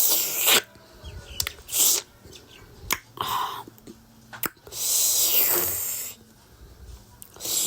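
A mouth sucking marrow from a buffalo bone: about five hissing slurps, the longest lasting over a second about five seconds in, with small clicks between them.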